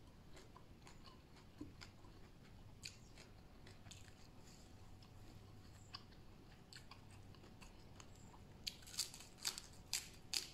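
A person chewing food with faint, scattered wet mouth clicks, then a run of louder, sharper crunchy bites near the end.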